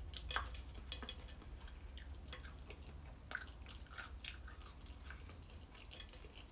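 Faint close-up chewing of homemade oil-less roasted fries, with scattered small clicks and crackles as fingers pick fries off the plate, over a low steady hum.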